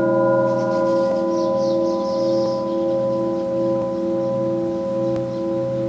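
Several crystal singing bowls ringing on together in long, steady tones, the lower notes pulsing slowly as they beat.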